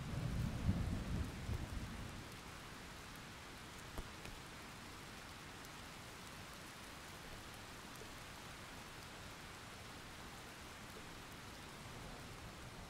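Steady rain hissing, with a low rumble of thunder over the first two seconds.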